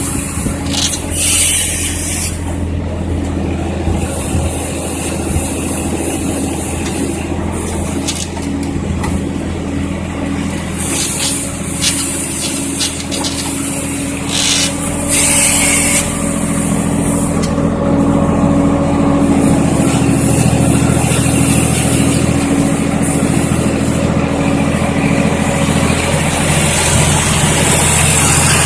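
Swaraj 960 tractor's diesel engine running steadily while powering a tractor-mounted backhoe loader, with a few short bursts of hiss. The engine note shifts and gets a little louder past the middle, as under heavier load.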